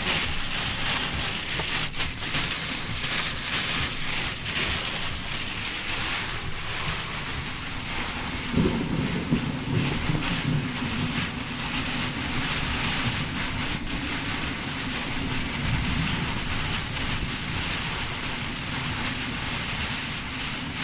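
Heavy rain pouring down in strong wind, with gusts buffeting the microphone. A low rumble comes in about eight seconds in and lasts several seconds.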